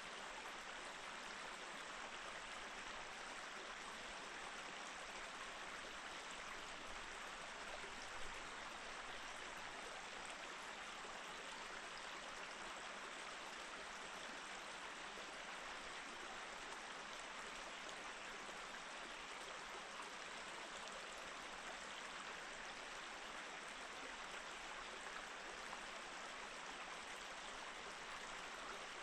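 Mountain stream flowing steadily over rocks, an even rushing babble of water.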